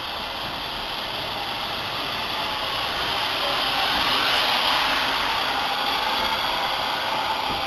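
Steam locomotive venting steam: a loud, steady hiss with no chuffing beat, swelling a little toward the middle.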